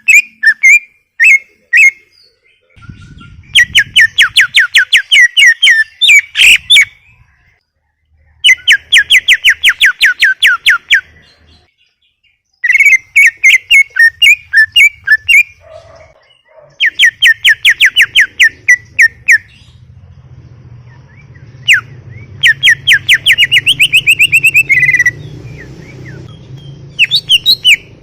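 A cucak ijo (green leafbird) singing loudly in full song: several bursts of a few seconds each, every burst a fast run of repeated sharp, whistled notes, with brief pauses between bursts.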